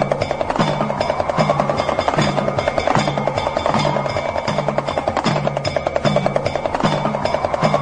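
Music: a damru, the small hourglass drum, rattling in rapid even strokes over a deeper drum beat that repeats a little more than once a second.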